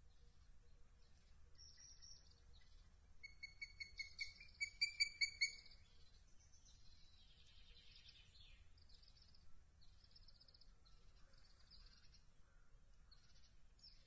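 A bird calling a rapid series of about a dozen high, clear notes over about two seconds, growing louder as it goes. Faint chirps of small birds are scattered around it.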